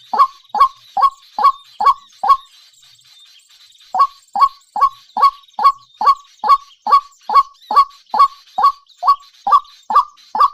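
A bird calling over and over, about two and a half short calls a second, each call dropping in pitch. There are six calls, a pause of about a second and a half, then a steady run of calls to the end.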